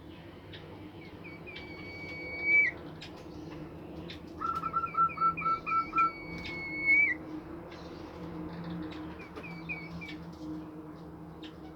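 A bimoli songbird singing: two loud phrases of quick chirps, each running into a long held whistled note that flicks up at its end. The second phrase has a fast run of lower chirps beneath it, and softer chirps follow near the end.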